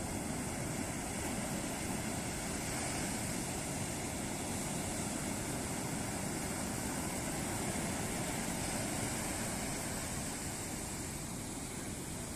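Ocean surf breaking on a beach: a continuous roar of waves, swelling slightly about eight seconds in.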